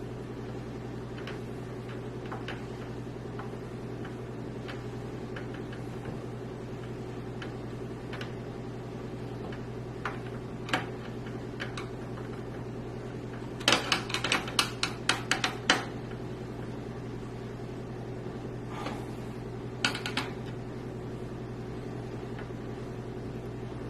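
Small hard clicks and rattles of screws and hardware being handled while a part is screwed into a PC case, scattered at first, then a quick run of about ten clicks in two seconds a little past the middle and a few more near the end, over a steady hum.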